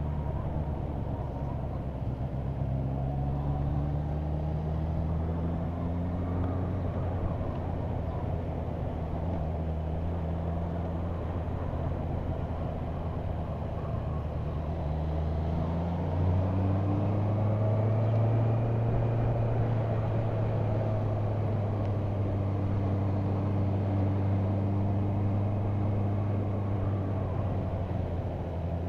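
Motorcycle engine running on the road. Its pitch rises twice as the bike accelerates, dropping at the gear changes between, then holds steady through the last part.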